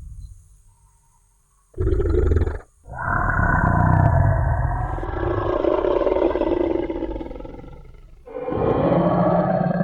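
Designed Tyrannosaurus rex roar sound effect: a few faint low thuds, then a short growl, then a long, loud roar that slowly fades out, and a second roar starting about a second later.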